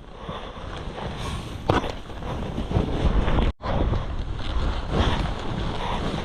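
Wind buffeting the microphone and skis hissing through snow during a fast downhill run. The sound cuts out for an instant about halfway through.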